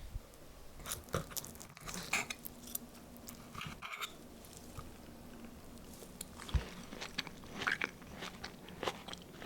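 Someone biting into and chewing the baked eggplant pizza, with irregular crisp crunches and small clicks.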